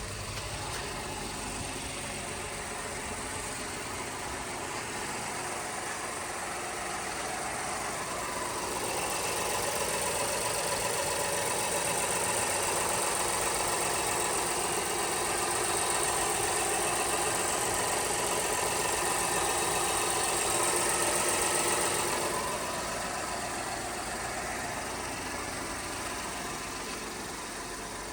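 2019 Acura TLX's 3.5-litre V6 engine running at idle, then raised about eight seconds in to a higher steady speed. It holds there for roughly twelve seconds before dropping back to idle.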